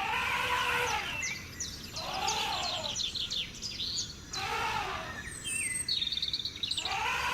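Birds calling: a repeated call that rises and falls in pitch, four times about two seconds apart, with quick high chirps and trills from other birds in between.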